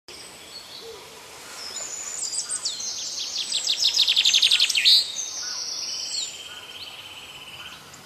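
Songbirds singing: high whistled notes build into a fast, loud trill that ends abruptly about halfway through, followed by a steadier, lower buzzing trill near the end.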